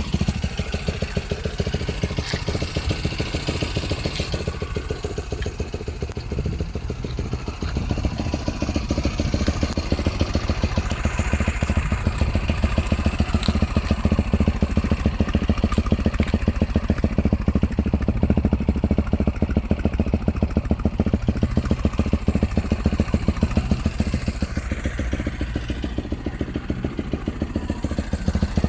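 Lexmoto LXS single-cylinder motorcycle engine idling through a Lextek stainless aftermarket exhaust, a steady rapid exhaust beat that grows a little louder about halfway through.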